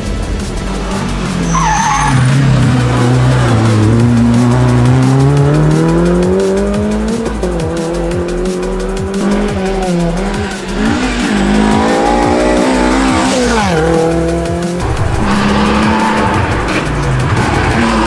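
Rally car engines at full throttle through a stage, pitch climbing steadily through a gear for a few seconds and then dropping, rising and falling again later, with tyres squealing and skidding on the tarmac.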